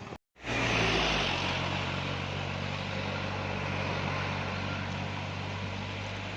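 Heavy truck's diesel engine running steadily close by, a low even hum under a rushing hiss that is loudest about a second in and then eases slightly. A brief cut to silence comes just before it starts.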